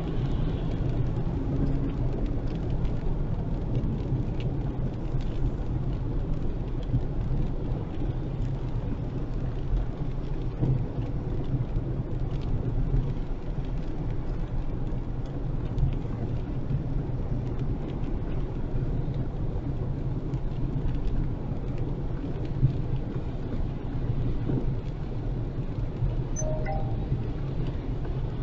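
Heavy rain on a car driving along a flooded, wet road, over a steady low rumble of road and engine noise.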